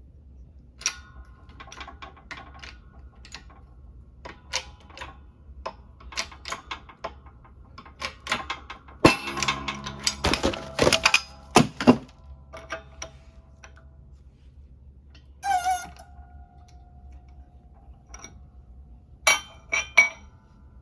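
Metal hand tools and suspension parts clinking and knocking, several strikes leaving a short metallic ring. A dense flurry of rattling knocks comes about nine to twelve seconds in, a ringing clank about fifteen seconds in, and two more knocks near the end.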